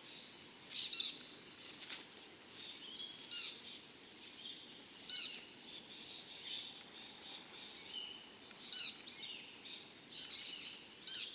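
Small birds chirping in short high bursts, one every second or two.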